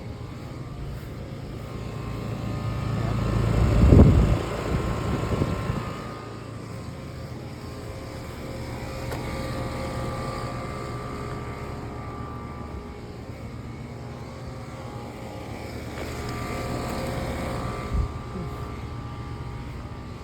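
Outdoor air-conditioner condenser units running with a steady hum from their fans and compressors. A rushing swell builds over a couple of seconds to a peak about four seconds in and then drops away, and a smaller swell and a short knock come near the end.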